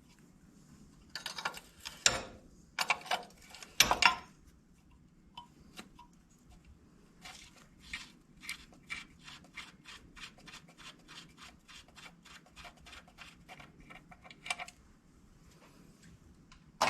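A few sharp metal clanks, then a hand ratchet wrench clicking in an even run of about four clicks a second for around seven seconds as a bolt on the steering shaft is backed out.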